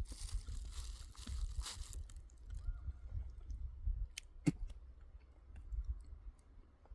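Close crunching and rustling over a steady low rumble, with a few sharp clicks about four seconds in.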